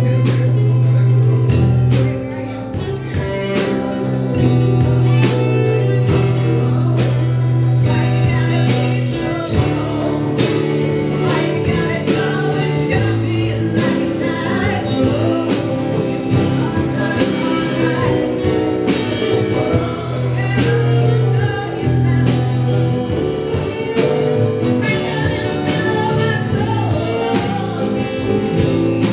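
A live band playing with a steady drum beat and a prominent bass line, in a passage where the lead vocal is not singing words.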